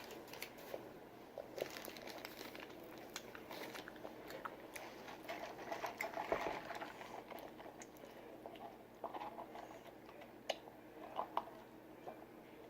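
Faint, scattered crinkling and handling of paper food packaging, with small clicks and rustles.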